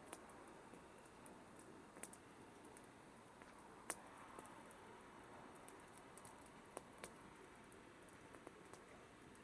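Campfire crackling faintly: scattered sharp pops and snaps over a low hiss, with the loudest pop about four seconds in.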